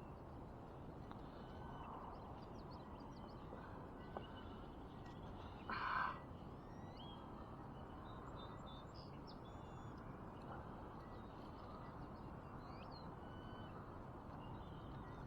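Wild birds chirping and calling faintly over a steady outdoor hiss, with one louder, harsher call about six seconds in.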